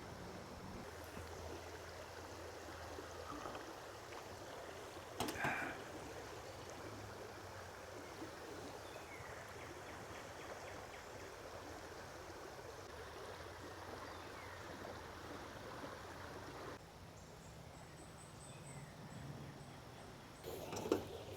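Creek water flowing steadily. There is a short knock about five seconds in, and footsteps begin near the end.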